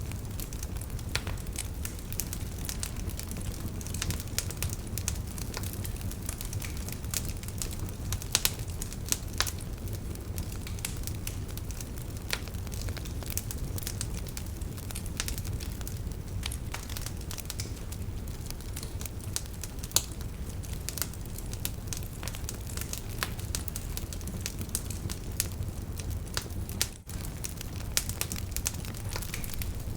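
Wood fire in a fireplace crackling, with frequent irregular sharp pops and snaps over a steady low rumble of the flames. There is a momentary gap in the sound near the end.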